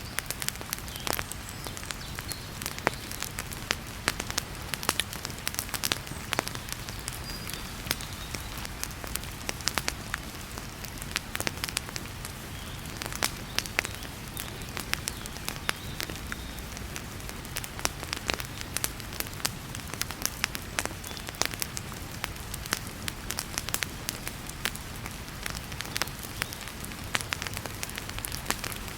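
Wood fire crackling in a fireplace, with frequent sharp irregular pops and snaps over a steady hiss of heavy rain.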